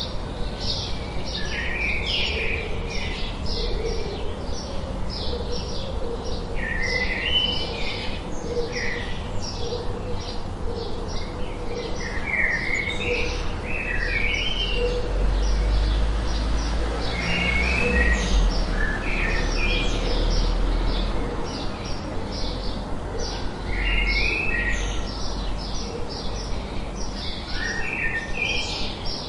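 Several birds chirping and singing: a dense stream of quick, high chirps with short repeated song phrases over them every few seconds, above a low rumble that swells through the middle.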